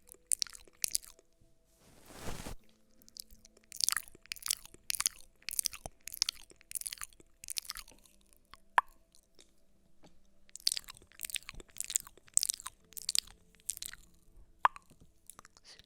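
Close-miked ASMR trigger sounds: a run of crisp crunching strokes, about two a second, with a short hiss about two seconds in and a quieter spell in the middle.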